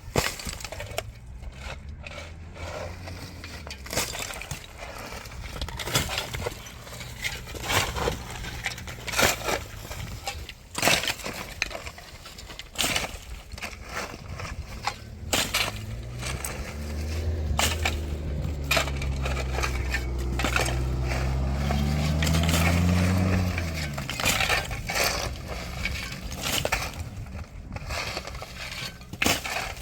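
Tractor engine running, revving so its pitch rises for several seconds before it drops back about two-thirds of the way through, under repeated sharp knocks and clattering of rubble being moved.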